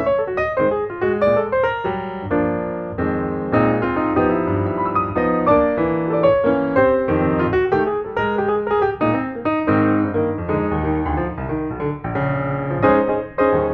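Background music played on piano, a stream of struck notes and chords at an even pace.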